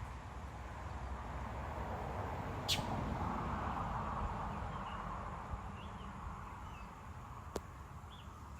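A vehicle passing: a broad rush of noise swells to a peak about three to four seconds in and fades away. Over it come a sharp high bird chirp a little before the peak and a few faint short chirps later.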